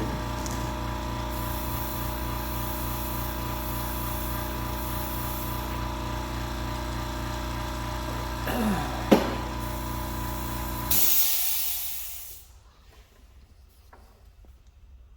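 An air compressor running with a steady hum while an airbrush hisses in spells. About eleven seconds in a loud hiss of air rises and fades over a second or so, and the hum stops with it.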